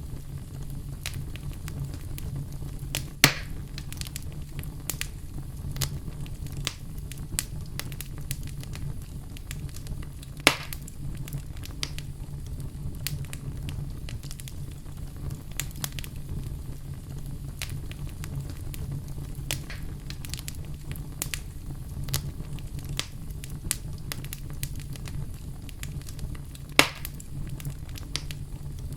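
Wood fire burning in a fireplace: a steady low rumble with frequent small crackles and three loud pops, about 3 s in, about 10 s in and near the end.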